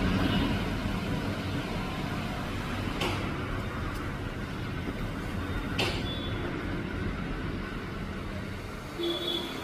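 A vehicle engine running steadily, with two sharp clicks about three and six seconds in.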